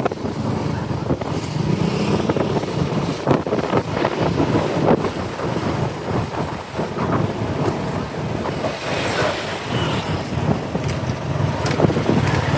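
Wind buffeting the microphone on a moving motorcycle, over the motorcycle's engine and road noise, in uneven gusts.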